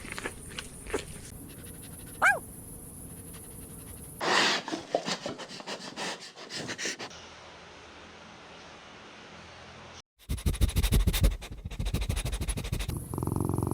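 Small puppies panting in quick breaths, with one short high whine about two seconds in and a fast run of panting strokes after a sudden break about ten seconds in.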